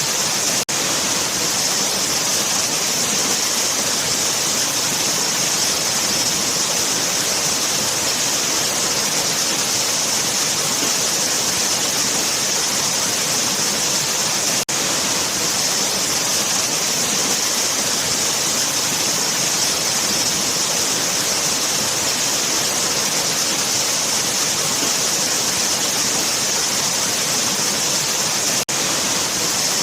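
Waterfall: a steady, dense rush of falling water with a hissy top. The sound breaks off for an instant three times, near the start, midway and near the end.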